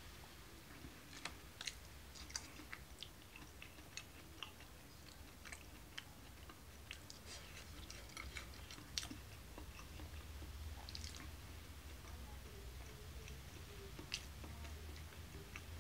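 A person chewing a mouthful of food, with soft mouth clicks and smacks at irregular intervals over a faint low hum.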